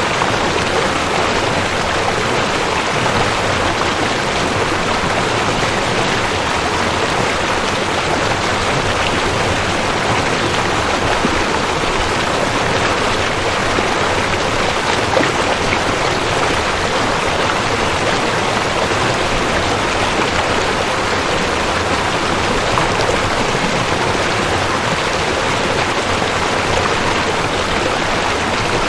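A rushing creek: water flowing fast over rocks in a steady, even rush.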